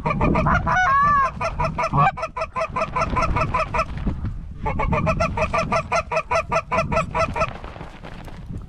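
Goose honking: a fast, even run of short clucking honks, about seven a second, with one longer drawn-out honk about a second in. It breaks off briefly around the middle and stops near the end.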